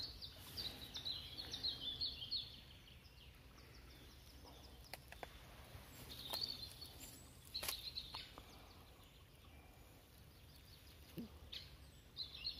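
Songbirds singing faintly in short, rapid chirping phrases: at the start, again around six seconds in, and just before the end, with a few sharp clicks in between.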